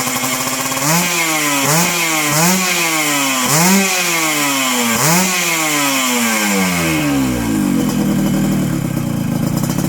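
Yamaha RX King's two-stroke single-cylinder engine, fitted with a Thai-style racing exhaust, idling and then blipped about five times in quick succession. Each blip's pitch jumps up and falls away. After the last one the engine sinks back to idle and keeps idling.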